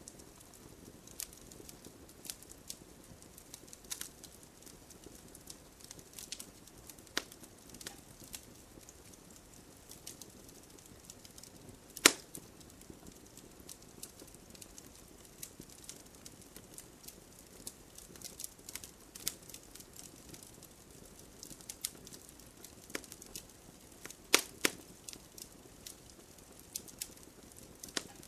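Wood fire crackling, with irregular sharp pops and snaps over a low hiss. The loudest single pop comes about twelve seconds in, and a quick cluster of pops comes near the end.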